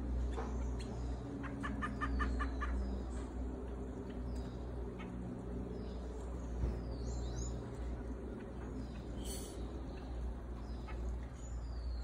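Birds calling at a fruit feeder: a quick run of about six clicking notes near the start, and thin downward-sliding whistles a few times, over low held notes in the first half and a steady low hum.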